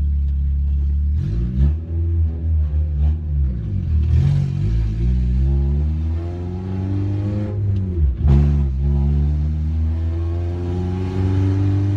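Honda H23 2.3-litre four-cylinder engine in a CB7 Accord, heard from inside the cabin while driving. The engine speed rises and falls repeatedly, then drops sharply about eight seconds in and climbs steadily again.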